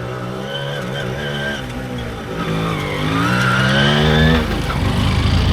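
Motorcycle engines running and revving as bikes ride past, the pitch climbing about three seconds in and breaking off sharply a second later into a low rumble.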